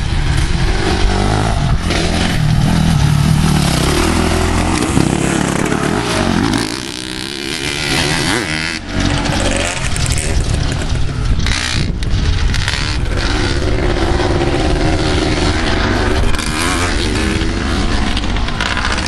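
Motocross dirt bike engine running and revving, its pitch rising and falling, with a quieter stretch about a third of the way through.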